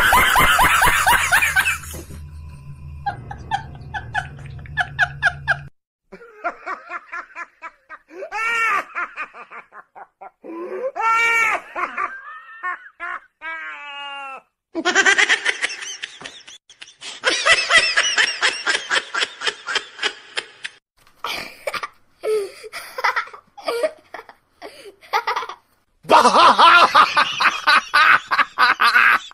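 Repeated bursts of laughter from several people, some long runs of rapid 'ha-ha' laughing, with high-pitched yelps between them.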